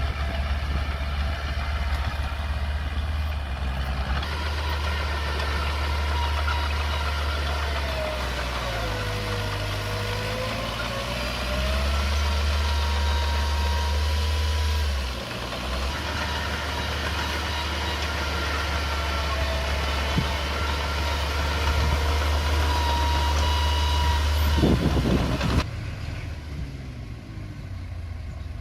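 Heavy construction machine's engine running, its low drone shifting as the load changes, with a thin whine that dips and rises about 8 to 11 seconds in. The drone drops away abruptly near the end.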